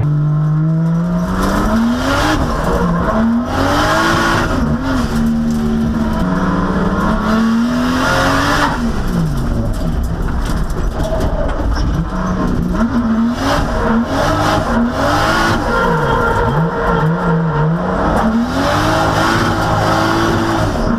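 A drift car's engine being driven hard: it revs up and down again and again as the car is thrown through the corners, with tire noise underneath.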